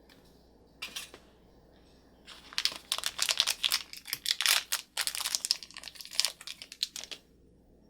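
Crinkling of thin toy wrapping being handled and torn open. One short crinkle, then about five seconds of dense crinkling and crackling.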